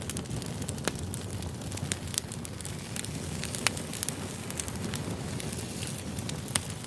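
Firewood burning: a steady low rumble of flames with irregular sharp crackles and pops from the logs.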